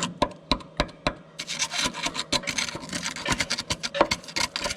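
Irregular scraping and rubbing against rusted metal, broken by sharp clicks and taps, denser in the middle.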